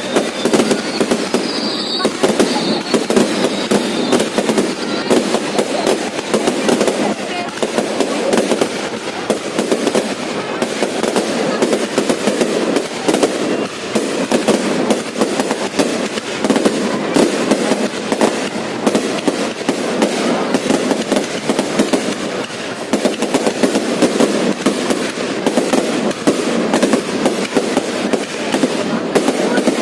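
Fireworks crackling without a break, a dense stream of many sharp cracks every second.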